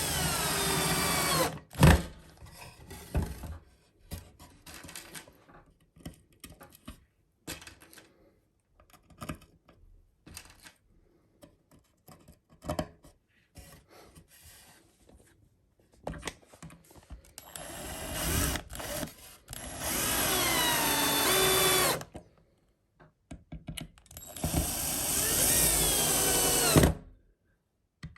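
Electric drill running in three bursts, its motor pitch sagging under load as it works into wood. Between the bursts come a sharp knock and scattered small clicks and knocks from handling.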